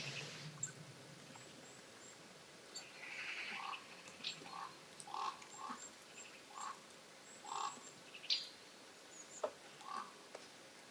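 Wild birds calling: a series of short notes repeated about once a second, with scattered high chirps and a brief noisy call about three seconds in.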